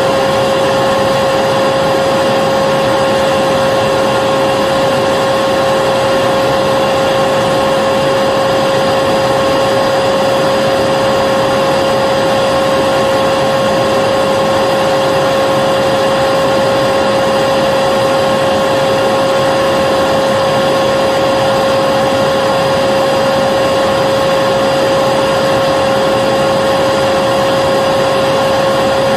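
Vacuum cleaner running continuously at a constant speed: a steady motor whine over an even rushing hiss, with no change in pitch or level.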